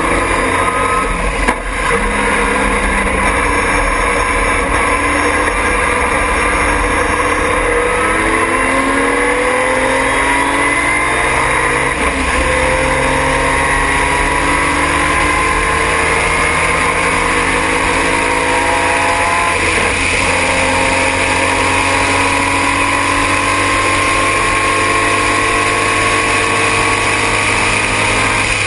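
Triumph TR6 straight-six race engine running hard under load, heard from inside the car. Its pitch climbs slowly, steps down about 12 seconds in and again about 20 seconds in, then climbs again, over a steady rush of wind and road noise.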